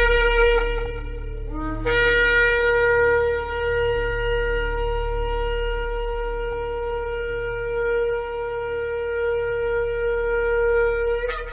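Shofar blown. One blast ends about a second and a half in, then a brief lower note leads into a long held blast of about nine seconds, which jumps up in pitch just before it stops near the end. A steady low hum runs underneath.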